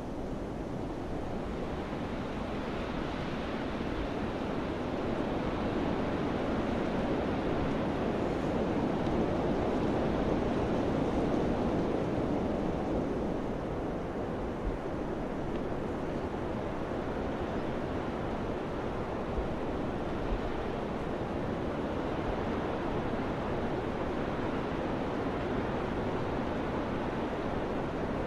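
Summer wind blowing steadily in a rushing, noisy wash that swells gradually over the first ten seconds or so, then eases slightly.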